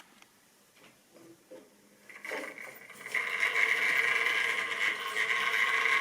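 Model railway train running along the track: a steady whine with wheel noise that builds up about two seconds in and stays loud through the rest.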